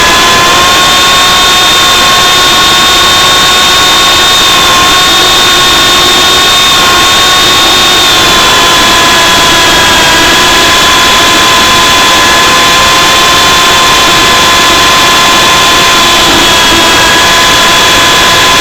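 MJX F45 radio-controlled helicopter in flight: a loud, steady high-pitched whine from its electric motors and rotor. The pitch rises slightly about half a second in and drops slightly about eight seconds in.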